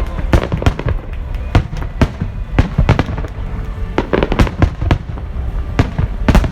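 Aerial fireworks shells bursting in rapid, irregular succession: sharp bangs several times a second over a continuous low rumble.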